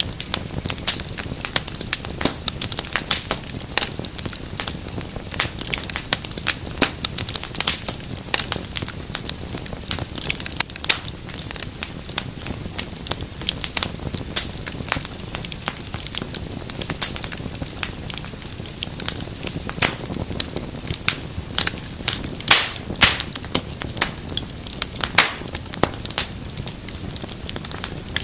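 Fireplace fire crackling steadily: many sharp pops and snaps, a few louder ones about two-thirds of the way through, over a low steady rumble of the flames.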